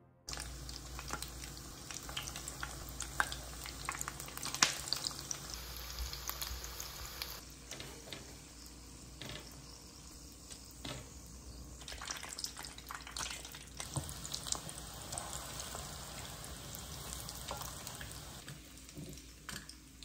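Breadcrumb-coated croquettes frying in hot oil in a frying pan: a steady sizzle with many small crackles and pops.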